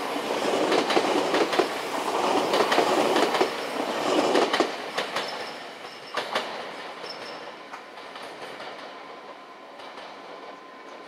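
Electric commuter train running along the platform track, its wheels clattering over rail joints, then fading away after about four and a half seconds. A thin high wheel squeal comes in briefly a little after the midpoint.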